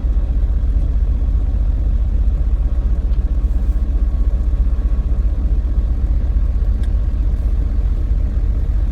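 Semi-truck running, a loud steady low rumble of engine and road noise.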